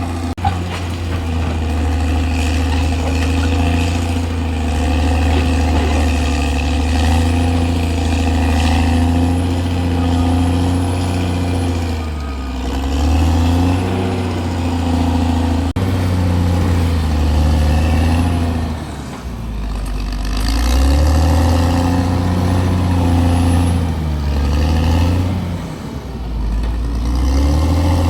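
Caterpillar D6R bulldozer's diesel engine running hard. Its pitch sags under load three times, at about 12, 19 and 25 seconds in, and picks back up each time.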